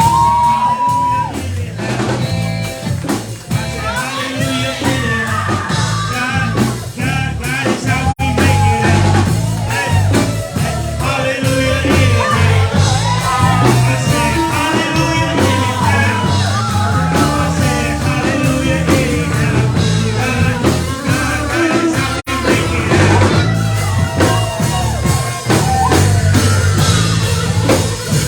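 Live gospel worship music: a band with bass, drums and guitar playing under a singer who holds long notes and slides between them. The sound cuts out for an instant twice.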